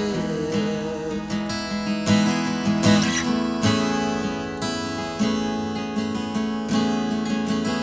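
Acoustic guitar strummed in a slow rhythm of chords, with the last sung note fading out with vibrato in the first second.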